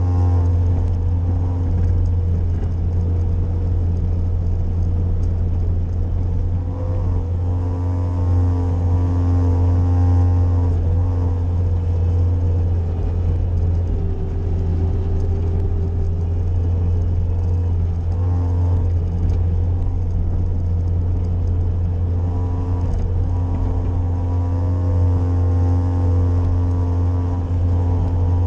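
Bobcat skid-steer loader's diesel engine running steadily with a deep drone, its pitch and load shifting at times as it pushes snow.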